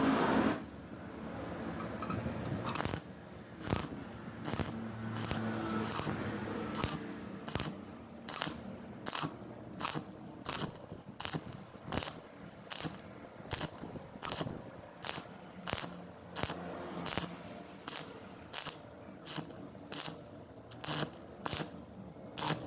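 Stick welding with an E6013 electrode on thin metal in short, intermittent arc bursts, a sharp crackle about one and a half times a second over the welder's steady hum.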